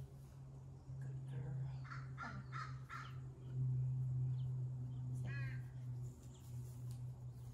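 Bird calls outdoors: a quick run of four or so short calls between about one and a half and three seconds in, and another call about five seconds in, over a steady low hum that swells for a couple of seconds in the middle.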